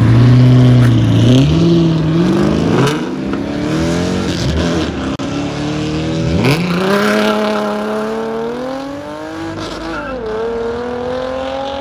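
A car engine revving hard, its pitch climbing and then dropping back several times, loud from the start.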